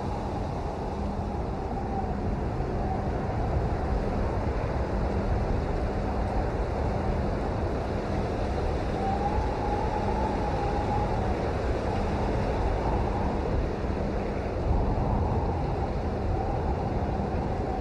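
Steady heavy rain: a dense, even wash of noise with a low rumble under it.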